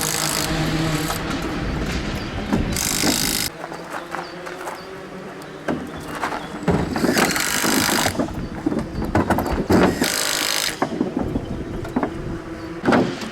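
Rally car engine running, then dropping away abruptly about three and a half seconds in. What follows is quieter, with scattered knocks and a few short bursts of hiss.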